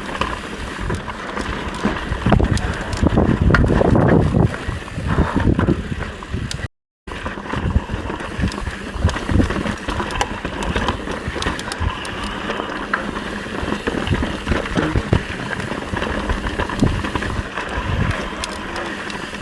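Mountain bike riding over a dirt trail: tyre noise, rattles and knocks from the bike, and wind on the microphone, heaviest in the first few seconds. The sound cuts out for a moment about seven seconds in.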